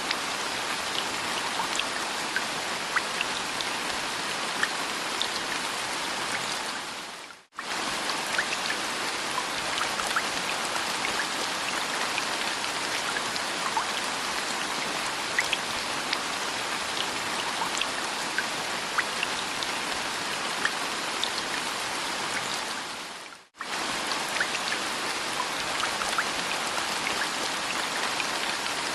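Steady rain falling on a surface, an even hiss scattered with small individual drop ticks. It briefly fades almost to nothing and comes straight back twice, about a quarter of the way in and again about four-fifths in.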